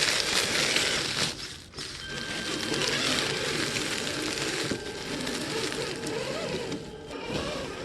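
An RC scale truck driving over icy snow: tyres crunching and grinding with a small electric motor whining underneath. The crunching pauses briefly after about a second and a half, and a thin steady whine shows from about 2 to 5 seconds in.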